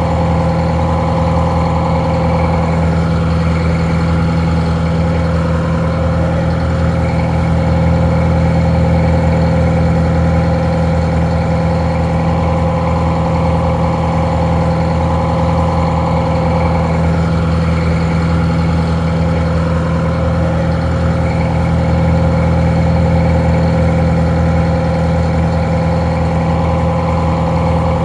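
Detroit Diesel 4-71 two-stroke diesel engine idling steadily, with a slightly muffled sound.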